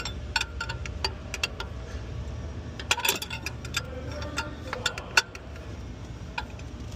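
Irregular sharp metal clicks and clinks of steel fuel injection lines and their fittings being handled and set in place, with a small cluster of louder clinks about halfway through. A low steady hum runs underneath.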